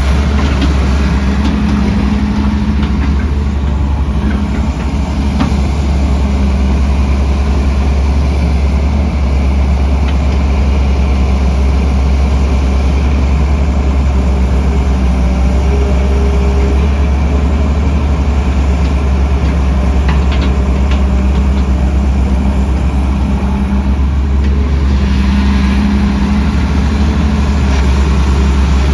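Heavy diesel engines of construction machinery running steadily, a deep low rumble with an engine tone that swells and eases at times.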